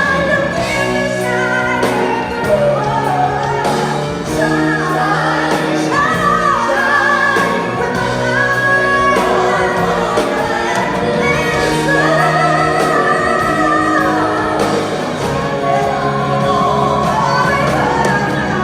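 A song with a lead vocal holding long notes with vibrato over a steady band accompaniment.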